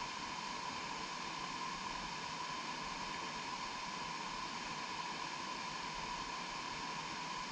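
Steady rushing noise from a motorcycle on the move, with a constant mid-pitched hum running through it and no change in speed or level.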